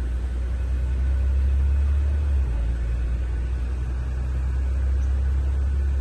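School bus engine running with a low, steady rumble.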